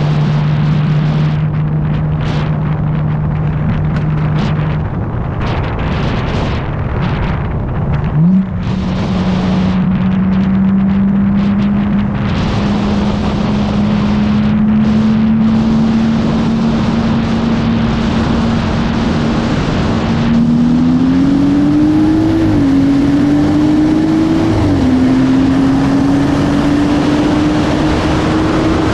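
BMW B58 turbocharged straight-six cruising steadily, then downshifting about eight seconds in and pulling hard with slowly climbing revs. Near the end the revs rise faster, with two quick upshifts about two seconds apart.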